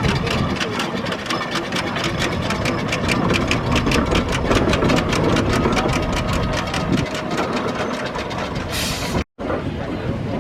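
Steam traction engine on the move, its exhaust chuffing in rapid, even beats. A short hiss comes near the end, then the sound cuts off abruptly.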